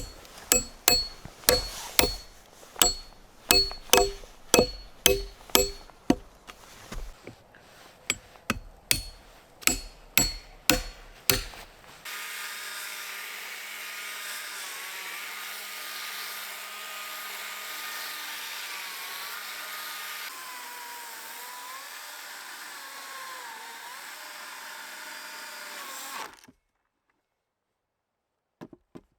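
About a dozen sharp tool strikes on wood, roughly two a second, each with a brief ring. Then a power tool running steadily for about fourteen seconds, its pitch wavering and dipping under load, cutting off suddenly.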